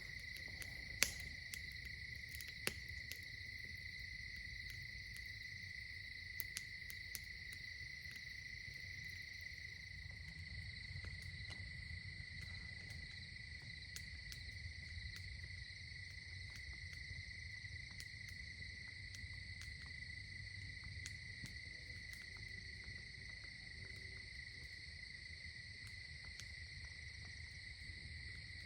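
Crickets chirring steadily in the night, with scattered faint clicks and pops.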